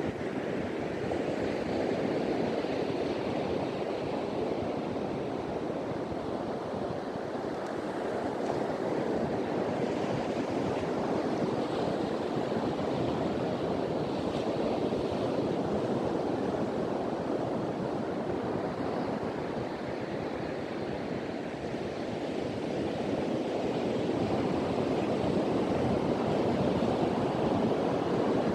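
Ocean surf washing steadily onto a beach, the waves swelling and easing slowly, with wind blowing across the microphone.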